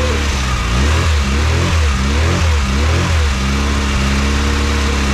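Freshly built classic Mini 1310cc A-series engine with a fast road camshaft, running on its first start: the throttle is blipped several times, the revs rising and falling, and it then settles to a steady idle.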